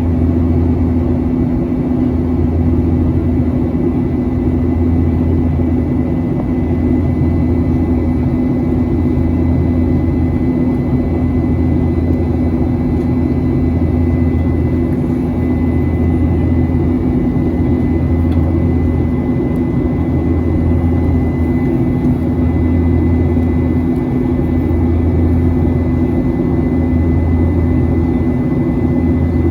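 Steady drone inside the cabin of a Boeing 737-800 in flight: its CFM56-7B turbofan engines and the airflow, with a low hum that swells and fades about every two seconds.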